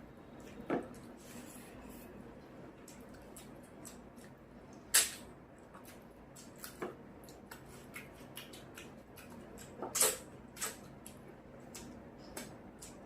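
Close-up eating sounds: soft wet chewing and mouth clicks, with two louder sharp clacks about five and ten seconds in.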